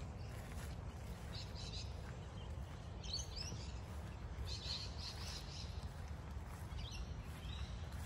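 Wild birds chirping in short bursts, four times, over a steady low background rumble.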